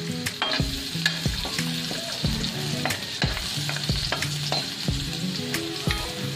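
Chopped garlic sizzling as it is sautéed in hot oil in a steel wok, with a metal spatula scraping and clicking irregularly against the pan as it is stirred.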